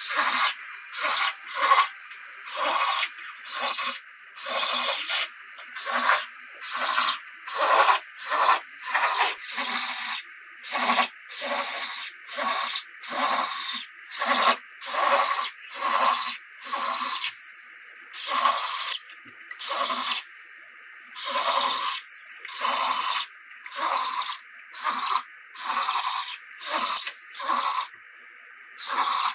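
Steady back-and-forth rasping strokes of hand abrasive work on car bodywork, about one and a half strokes a second.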